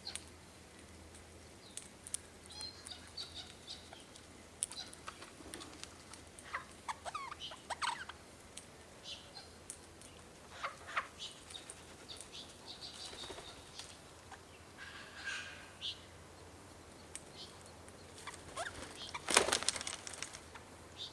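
Wild birds giving scattered short chirps and calls, with a loud flutter of wings about nineteen seconds in.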